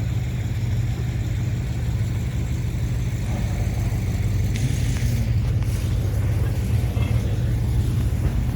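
A car engine running steadily with a low rumble.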